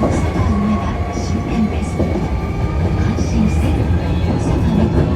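Inside a Hankyu 1300 series train while it runs: rumble of wheels on rail with the steady whine of the Toyo IGBT VVVF inverter and traction motors. A knock recurs about every two-thirds of a second, on a car the uploader labels as having an abnormal noise.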